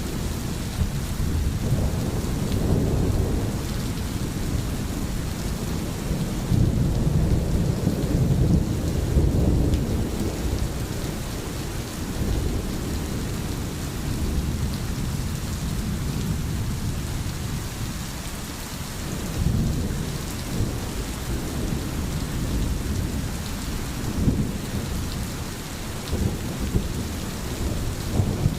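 Steady rain with thunder rumbling low in the background, the rumble swelling several times.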